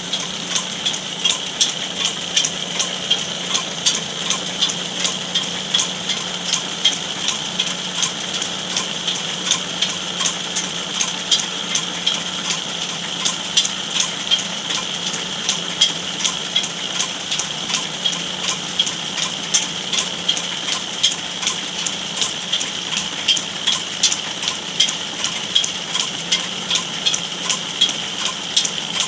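Wood lathe running while a wooden charpai leg is turned, with a steady cutting hiss and a hum and regular sharp ticks about three times a second.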